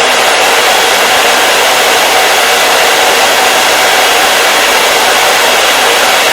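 Hair dryer running steadily: an even, unchanging rushing of air from its fan and motor.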